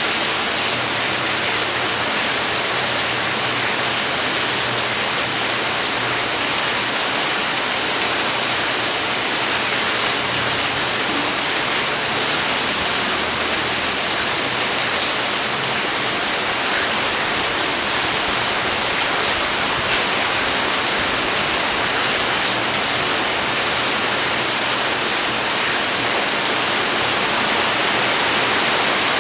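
Rain falling steadily: a dense, even hiss with occasional faint ticks of single drops.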